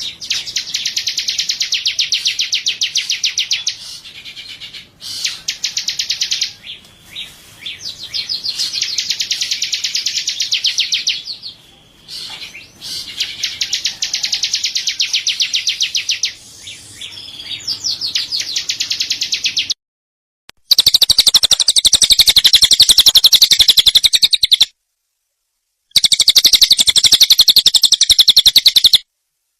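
A songbird singing long, fast trills of high repeated notes, each run lasting a few seconds with short breaks between. After about two-thirds of the way in, the song comes in cut blocks separated by dead silence, as in an edited recording.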